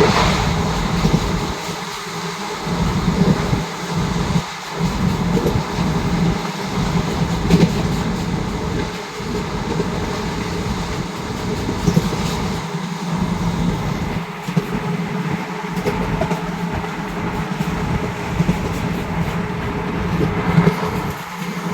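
Passenger express train running on the track: a steady low rumble that rises and falls, with some clatter of wheels over rail joints.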